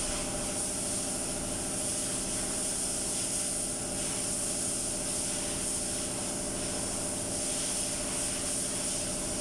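A motor or engine running steadily: a constant hum with a high hiss over it, unchanging throughout.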